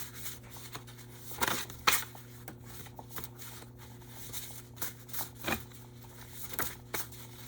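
Tarot cards being handled and drawn from the deck: a few short rustles and sharp snaps of card stock, the sharpest about two seconds in, over a steady low hum.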